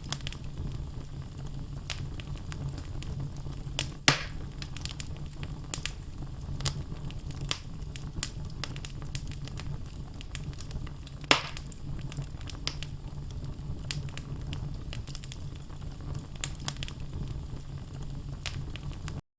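Wood logs burning in a fireplace: a steady low rumble of flames with frequent small crackles, and two loud pops about four seconds and about eleven seconds in. The sound cuts off suddenly near the end.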